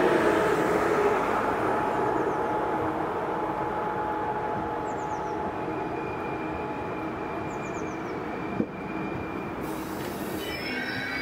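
ICE high-speed train rolling slowly past along the platform: a steady rumble with thin whining tones that slowly fades. A single sharp knock about eight and a half seconds in.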